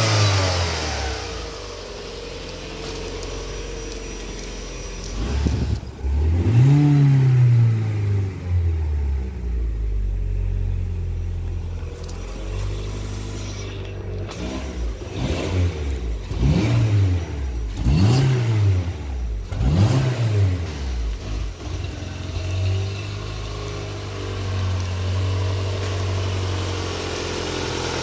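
2013 Proton S16's 1.6-litre four-cylinder petrol engine running, idling between blips of the throttle. There is one rev that rises and falls about six seconds in, a run of four quick blips in the middle, and a few seconds held at a slightly raised speed near the end.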